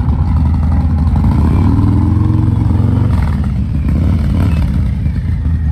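Motorcycle engine running, rising in pitch as it revs up about a second and a half in, then dropping back and running on steadily.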